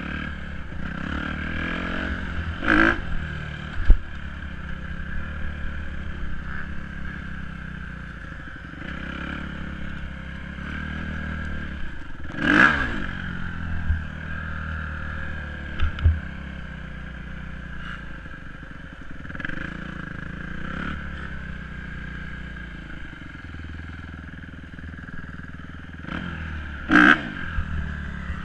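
Dirt bike engine running steadily, with three brief swells in engine pitch and loudness: about three seconds in, near the middle and near the end. Two sharp knocks stand out, one about four seconds in and one just past the middle.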